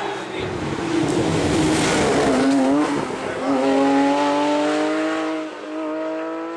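Porsche 911 rally car's flat-six engine at speed, the revs wavering up and down in the first half, then pulling steadily with a slowly climbing pitch from about halfway.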